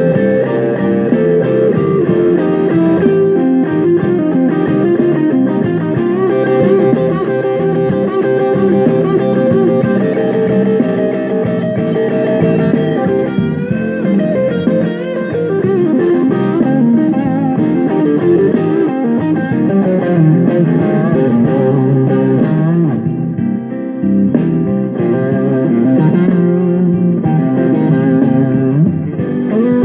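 Electric guitar played through a ported Fender Rumble 15 V3 bass combo amp, over a backing jam track coming through the same amp's aux input.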